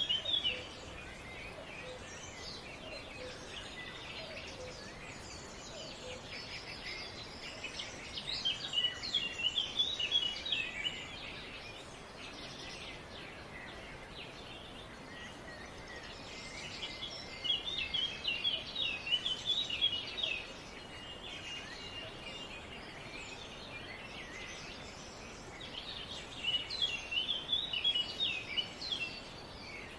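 Bird song in short bursts of quick chirping notes, each about three seconds long and coming roughly every eight or nine seconds, over a steady outdoor background hiss.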